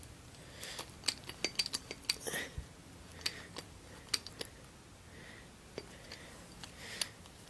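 Hand crimping tool clicking and clacking as it is set on and squeezed around a wire lug on a battery cable. There is a quick run of sharp clicks about a second in, then scattered single clicks.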